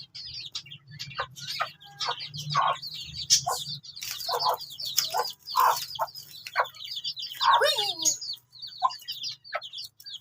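Chicks peeping rapidly and continuously in a high-pitched chorus, with a mother hen clucking among them.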